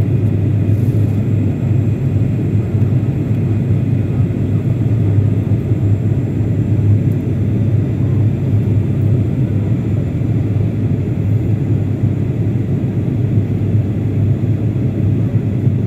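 Airliner cabin noise heard from inside the cabin on the approach to landing: a steady, loud rumble of engines and airflow that does not change.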